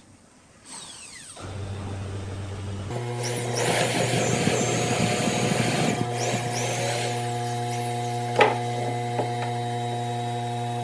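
A power tool's electric motor comes up to speed and runs with a steady hum. A rough, noisy stretch in the middle sounds like the tool working the wood, and there is one sharp click later on.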